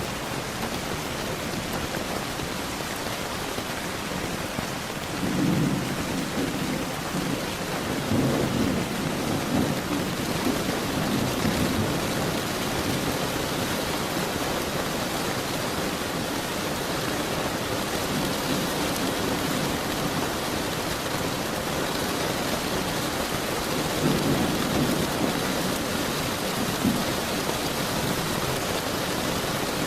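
Steady heavy rain hissing, with rolls of thunder rumbling low underneath: one about five seconds in, a longer one from about eight to twelve seconds, and another near the end.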